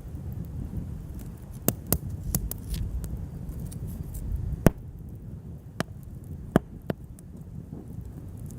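Wood fire crackling, with about seven sharp, scattered pops, the loudest about halfway through, over a steady low rumble.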